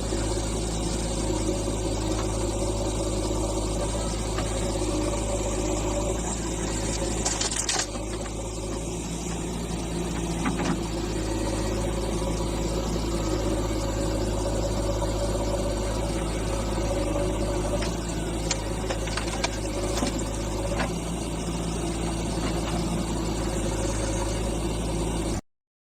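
Diesel engine of heavy earthmoving machinery running steadily, with a few short knocks and clatters over it. The sound cuts off suddenly near the end.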